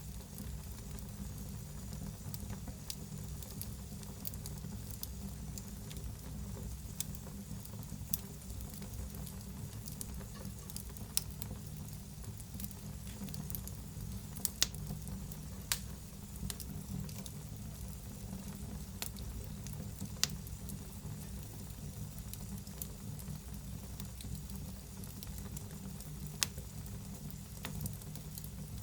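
Wood fire burning in a fireplace: a steady low rumble and hiss with irregular sharp crackles and pops, a few louder snaps near the middle.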